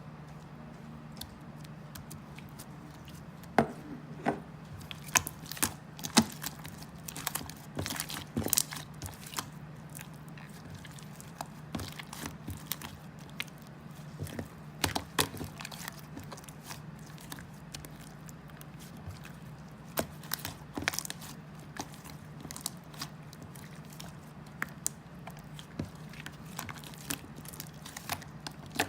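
Irregular crisp crunches and clicks, coming in clusters, over a steady low hum: something being bitten and chewed.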